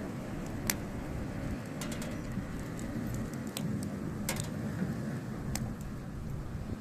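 Hardwood firewood burning, crackling with sharp pops every second or so over a steady low rumble.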